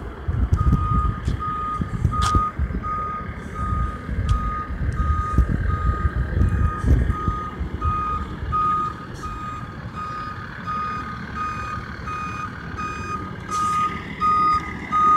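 A truck's reversing alarm beeping steadily, about one and a half beeps a second, as a utility truck backs up to turn around.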